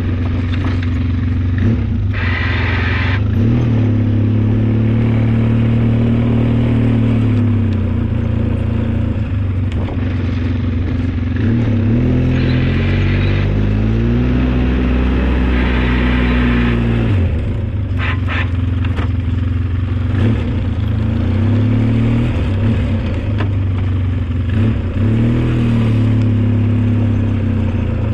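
Engine of an old snow-plowing vehicle running under load, its pitch rising and falling several times as it revs up and eases off while pushing heavy snow.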